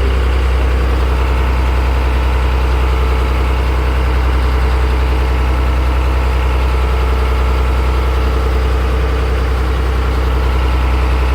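A boat's engine running steadily at low speed, a constant deep hum heard from on board.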